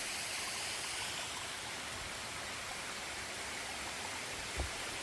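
Steady rush of fast-flowing stream water. A single soft low thump comes near the end.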